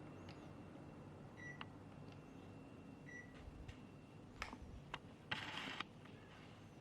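Quiet room tone with a steady low hum, two short high beeps and a few clicks, then a brief hiss about five seconds in.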